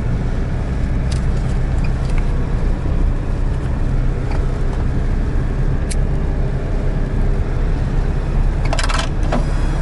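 GAZelle Next van driving, heard from inside the cab: a steady low rumble of engine and road noise, with a few faint clicks and a brief burst of noise near the end.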